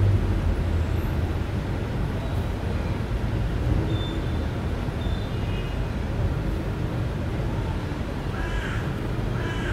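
Steady low outdoor rumble with faint high chirps midway; near the end, a bird gives three short harsh calls about a second apart.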